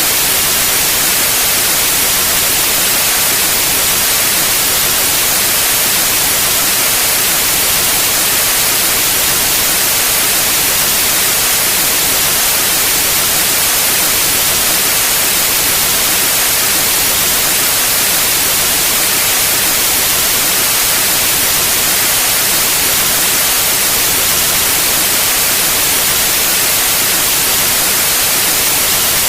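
Steady white noise: an even hiss, strongest in the high frequencies.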